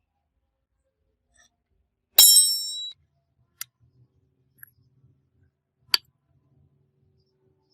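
Metal gearbox parts or tools being handled: one sharp metallic clink about two seconds in that rings briefly, then three short clicks spread over the next few seconds.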